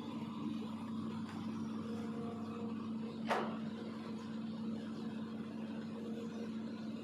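Hitachi ZX200-5G long-arm excavator's diesel engine running steadily, with a single sharp knock about halfway through.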